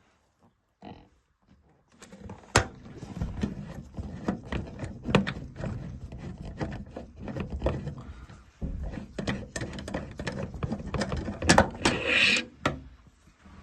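Hand tools and metal parts being handled while working on a gas boiler's internals: a run of irregular clicks, knocks and clatter starting about two seconds in, with a brief louder scraping noise near the end.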